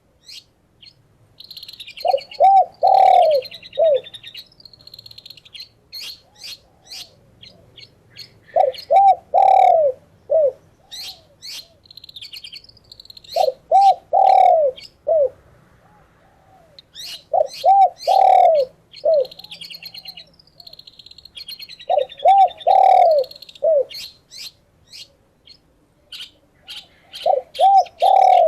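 A dove cooing in repeated phrases of four or five low notes, one every four to five seconds, while other birds keep up high chirps and twittering between the phrases.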